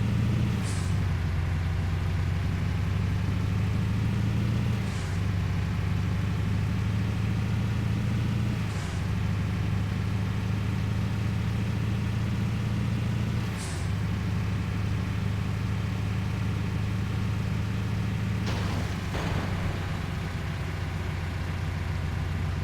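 Truck engine running steadily, its low drone shifting slightly in pitch every few seconds, with short hisses of air about four times and a longer hiss near the end.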